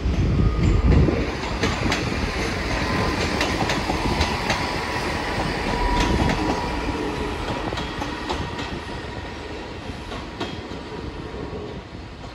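Train wheels clicking irregularly over the track with a low rumble as a train moves through the station. It is loudest about a second in and slowly fades.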